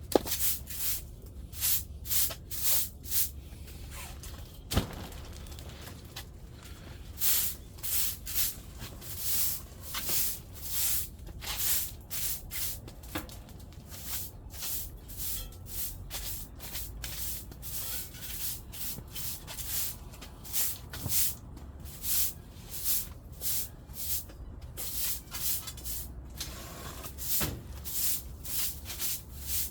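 Repeated brushing strokes, about two a second with a short pause a few seconds in: cleaning soot and ash out of a wood-burning stove.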